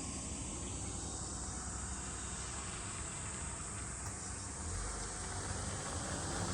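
Cicadas droning steadily in a high, even hiss, over a low rumble. A broad rushing noise grows louder in the last couple of seconds.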